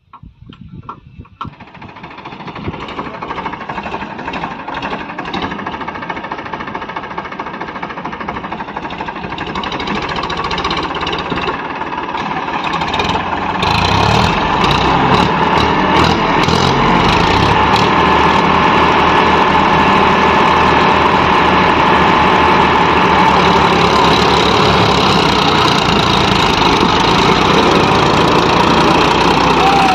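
Powertrac Euro 50 tractor's diesel engine running. It comes in about a second in and grows steadily louder until about halfway, then holds a steady, loud run.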